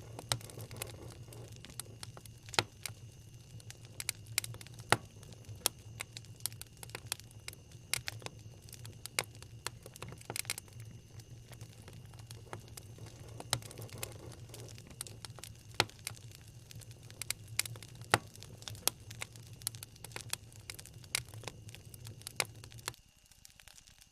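Wood fire crackling in a fireplace: irregular sharp pops and snaps over a low steady rumble, fading out near the end.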